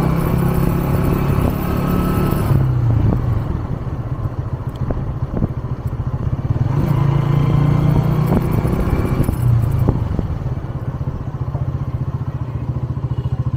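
125 cc motorcycle engine heard from the rider's seat, pulling under throttle, easing off about two and a half seconds in, opening up again around the middle and easing off once more towards the end. A few light clacks sound in the quieter stretch.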